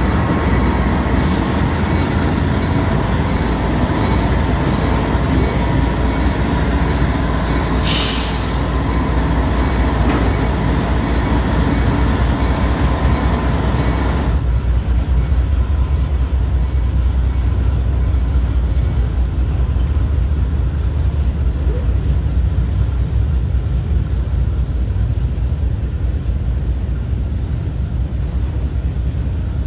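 Train passing, a steady loud rumble of rolling railroad cars, with a brief high hiss about eight seconds in. About halfway through, the higher part of the sound cuts off suddenly, leaving only a low rumble.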